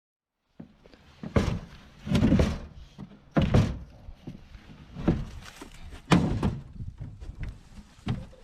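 Workshop handling sounds: about six thunks and knocks at uneven intervals, with quieter shuffling between them, as parts are moved and fitted during repair work on an old boat.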